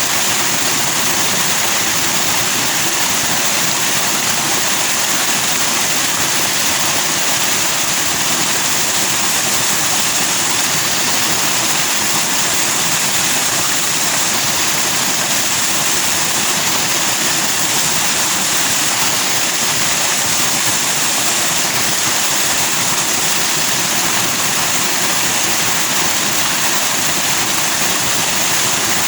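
Fast-flowing stream rushing over rocks in foaming white water, a steady, even hiss of running water.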